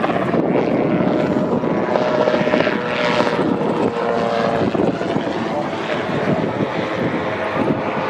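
Helicopter flying at an air show, with a loud, steady rotor and turbine noise.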